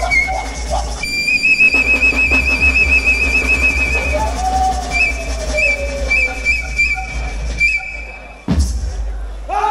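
A trilling whistle held over a dance-music backing with a low, steady bass, breaking after about three seconds into a run of short whistle chirps. A sudden loud thump comes near the end.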